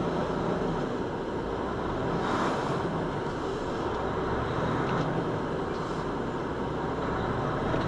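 Steady road and engine noise of a moving vehicle.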